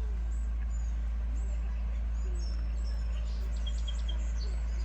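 Small songbirds chirping and calling repeatedly, with three quick, bright, high notes about three and a half to four seconds in. A steady low rumble runs underneath.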